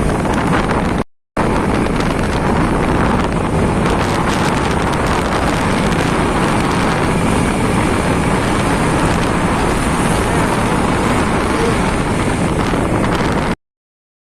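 Wind rushing over the microphone of a motorcycle moving at speed, with steady road noise. It drops out briefly about a second in and cuts off suddenly near the end.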